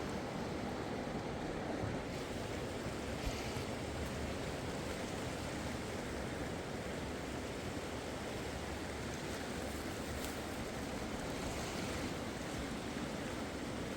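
Steady rush of a fast-flowing mountain river, an even noise without breaks.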